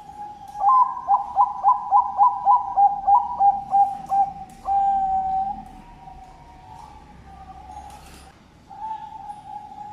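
Perkutut bangkok (zebra dove) cooing its song: a drawn-out opening coo breaks into a quick run of about a dozen short, even coos, at roughly three or four a second, and ends on one long held coo about five seconds in. A new drawn-out coo begins near the end.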